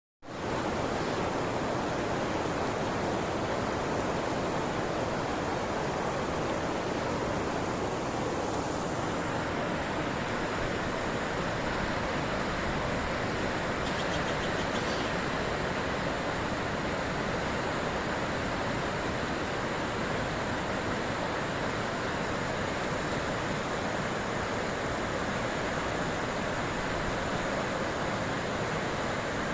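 Steady rush of whitewater as the Rogue River pours over Dillon Falls and its rapids, an even noise throughout.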